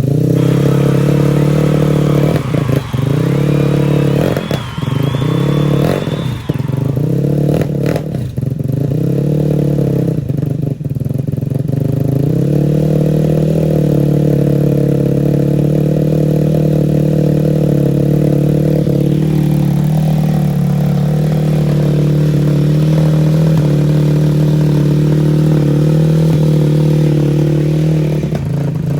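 Custom Honda Grom mini bike engine with a straight-through racing exhaust running cold on choke: the revs sag and pick up again about six times in the first dozen seconds, then settle into a steady idle. The owner puts the stumbling down to a cold engine not tuned for winter and a fuel filter clogged by tank debris.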